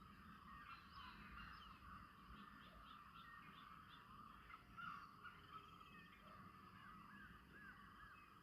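Several birds singing and calling faintly, with overlapping chirps and whistles. A quick run of short repeated notes comes about three seconds in, and looping whistled notes follow later on, over a low rumble.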